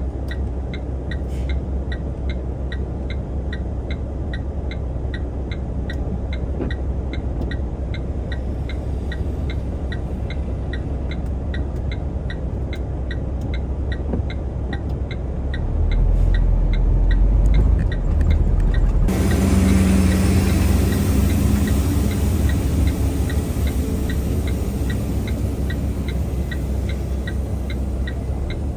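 Dongfeng truck's diesel engine running, heard from inside the cab, with a steady rapid ticking about three times a second. About sixteen seconds in, the engine grows louder under load. A few seconds later the ticking stops and a louder rumble with hiss takes over as the truck tries again to climb a snowy hill it is stuck on.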